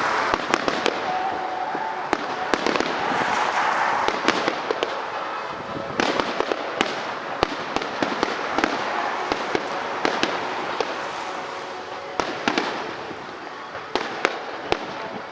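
Fireworks display: a string of sharp bangs and crackles from bursting aerial fireworks over a continuous crackling hiss, easing off slightly toward the end.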